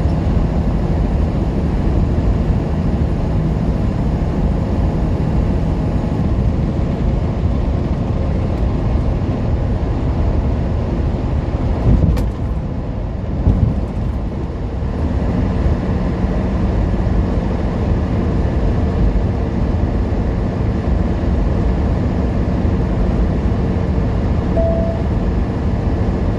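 Semi truck running at highway speed: steady engine and road noise, with one sharp click about twelve seconds in, a short dip in level, and the hum settling onto a slightly different steady pitch a few seconds later.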